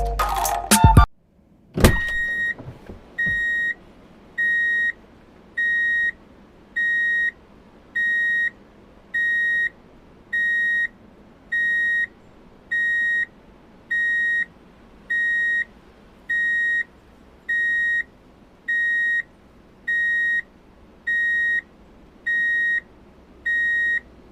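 Electronic beeper sounding a steady repeating beep at one high pitch, each beep about half a second long and about one every second and a half, starting just after a click near the start.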